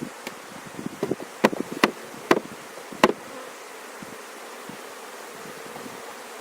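A colony of honeybees buzzing steadily in an opened hive, a constant hum with a faint steady tone. Between about one and three seconds in come four sharp knocks as the hive is tapped to shake the bees down.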